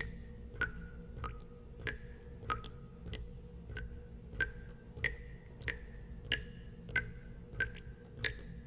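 Water drops falling steadily into water, one drop about every 0.6 seconds, each a sharp plink with a brief ringing pitch that varies slightly from drop to drop, over a low steady rumble.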